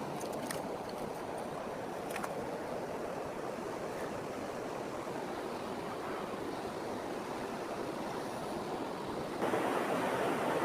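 Fast-flowing river water rushing steadily, with a few light clicks in the first couple of seconds. The rush gets louder about nine seconds in.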